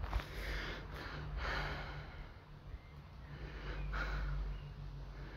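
A person breathing close to the microphone: a few soft, noisy breaths, near the start, about a second and a half in and about four seconds in, over a steady low hum.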